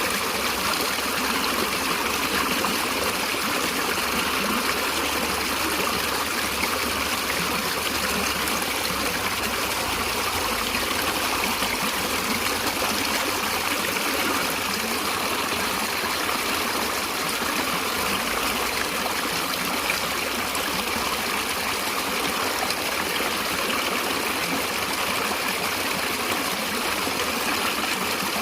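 A stream running and trickling steadily.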